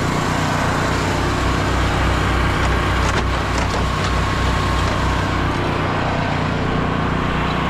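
Pressure washer's engine running steadily, with a continuous hiss over it.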